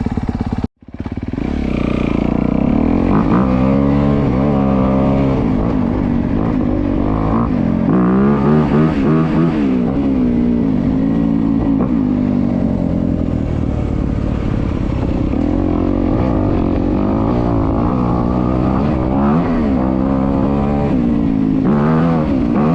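2025 Honda CRF250R's single-cylinder four-stroke engine through its stock exhaust, running and revving up and down repeatedly, its pitch rising and falling. A brief dropout just under a second in.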